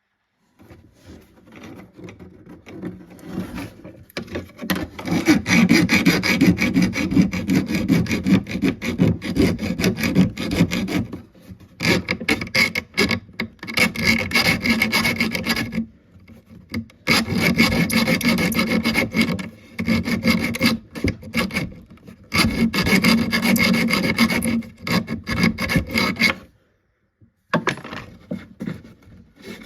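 Rapid back-and-forth scraping strokes of a hand tool or abrasive on wood. They come in runs of a few seconds with short pauses between them.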